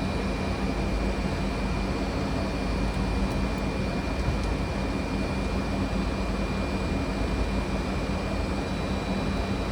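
Steady flight-deck noise of a Fokker 100 on approach: a low rumble of airflow and engines with a thin, steady high whine over it.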